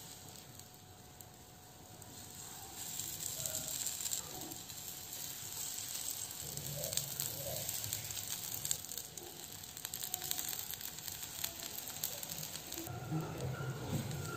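Batter-coated zucchini slices sizzling and crackling in hot oil in a frying pan, the sizzle growing louder a couple of seconds in as more slices go into the pan.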